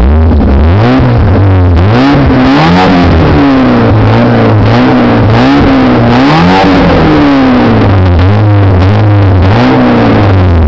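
Ford Escort WRC replica's engine revved through an aftermarket exhaust back box: about ten quick throttle blips, roughly one a second, each rising and falling in pitch and dropping back near idle between them.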